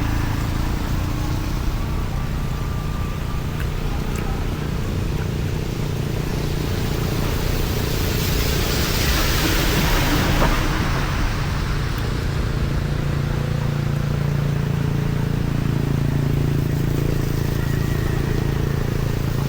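An engine running steadily, with a swell of hissing noise about eight to eleven seconds in.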